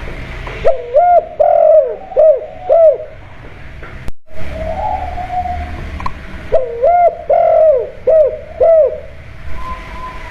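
Spotted dove (tekukur) cooing its kuk-2 song: two phrases of about five arching coos each, one about a second in and one past the middle. The sound drops out for a moment between the two phrases.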